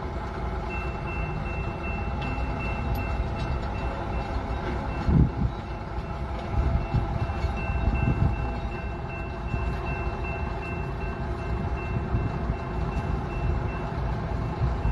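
Heavy diesel equipment running at a rail derailment cleanup: a steady low engine rumble with a thin, steady high tone over it from about a second in. Louder low thuds come about five seconds in and again around seven to eight seconds in.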